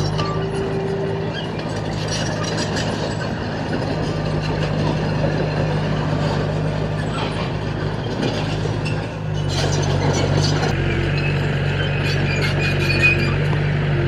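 Diesel engine of a heavy earthmoving machine running steadily, getting a little louder and fuller about nine and a half seconds in.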